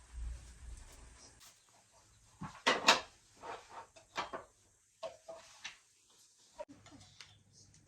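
Irregular knocks and clatter of kitchenware being handled, the loudest cluster of strikes about three seconds in.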